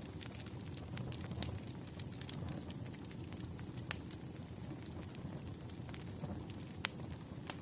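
Wood fire crackling: a soft steady low rumble of burning logs with irregular sharp pops, the loudest about four seconds in and another near the end.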